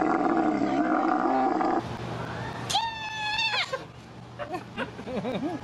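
A loud steady sound cuts off about two seconds in. Then an animal gives one shrill, human-like scream lasting about a second that drops in pitch at the end, followed by a few short squeaky rising-and-falling calls.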